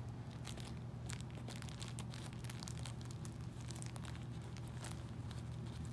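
Scattered light crinkling and small clicks over a steady low hum.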